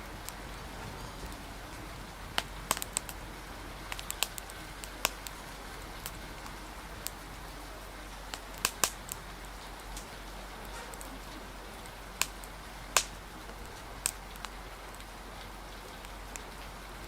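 Wood fire crackling, with irregular sharp pops, over a steady hiss of rain.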